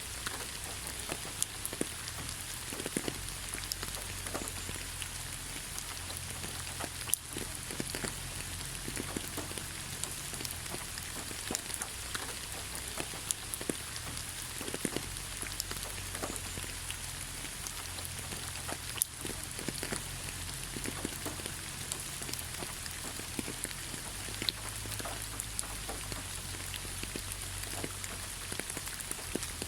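Rain falling steadily on leaves, a continuous patter of many small drop ticks, with now and then a louder single drop.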